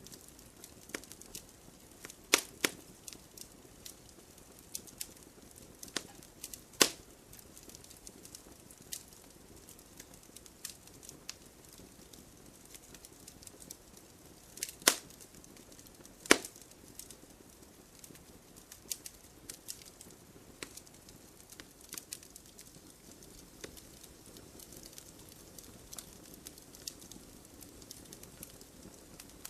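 Wood fire crackling: irregular sharp pops and snaps over a low hiss, with a handful of louder pops standing out.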